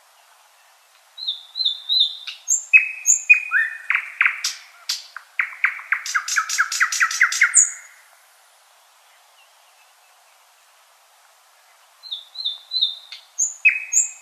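Nightingale singing. One phrase opens with short high whistles and chirps and builds to a fast run of repeated notes, about six a second. After a pause of about four seconds, the next phrase begins near the end.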